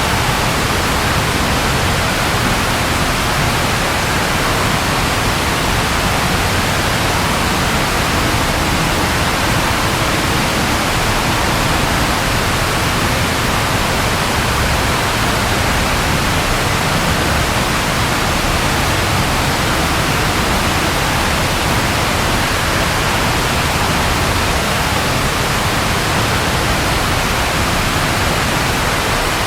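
Steady rain falling: an even, dense hiss with no breaks and no thunderclaps.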